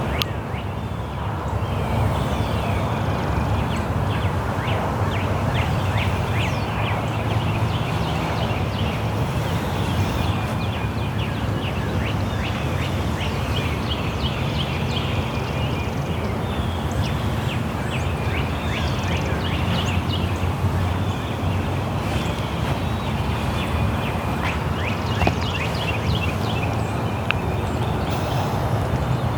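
Many birds chirping in quick, short calls over a steady low rumble.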